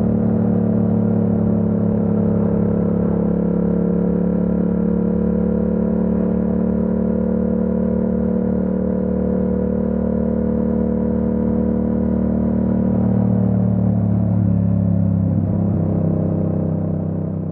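Yamaha MT-07's parallel-twin engine running at a steady, unchanging pitch, shifting a little about three-quarters of the way through, then starting to fade out near the end.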